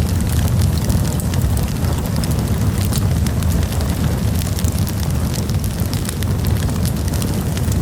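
Campfire burning: dense, irregular crackling and popping of wood over a steady low rumble.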